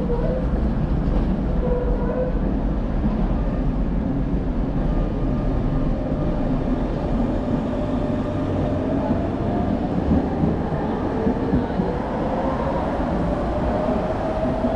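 A rail vehicle running past with a steady low rumble, its electric motor whine rising in pitch through the second half as it speeds up.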